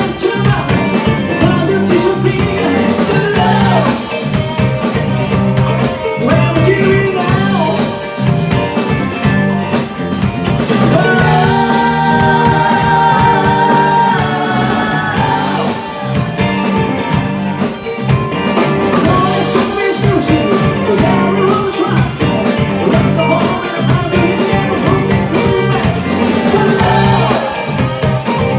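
Live rock band playing, with singing over a steady drum beat and guitar.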